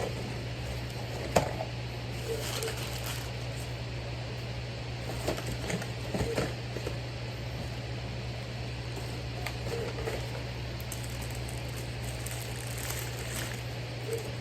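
Eating sounds over a steady low hum: soft chewing and mouth noises every few seconds, with scattered crinkles and clicks of food packaging being handled and one sharp click about a second and a half in.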